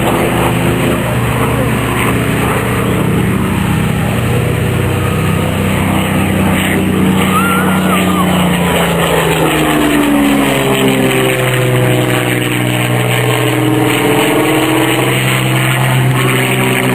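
Spitfire and Hurricane V12 piston aero engines droning in a low pass, the engine pitch sliding down and back up as the fighters go by.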